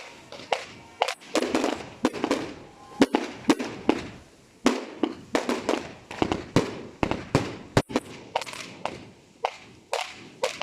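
Fireworks display: aerial shells bursting in a rapid, irregular barrage of sharp bangs, about three a second, with crackling between the reports.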